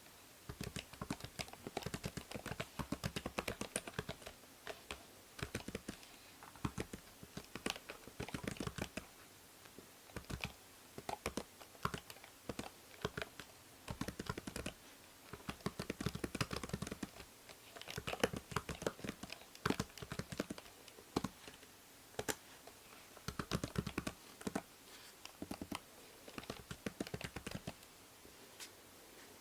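Computer keyboard typing: quick runs of key clicks in bursts of a few seconds with short pauses between, over a faint steady hiss from the binaural microphone.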